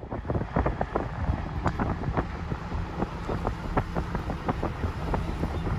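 A train rolling by: a steady low rumble with many irregular clicks and clanks, and wind on the microphone.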